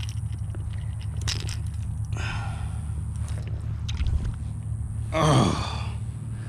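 A man's wordless gasps and grunts: a short one about two seconds in and a louder one falling in pitch about five seconds in. Under them runs a steady low hum, with a few light clicks or scrapes.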